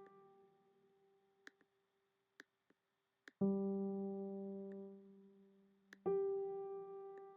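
Software piano notes auditioned one at a time, each struck and left to ring and fade. A tone is dying away at the start, a fuller chord sounds a little past three seconds in, and another note comes near six seconds, with faint clicks in between.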